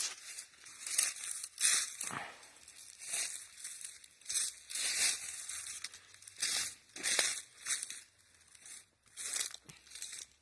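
Footsteps crunching through dry leaf litter on the forest floor, an uneven step about once a second with short pauses between.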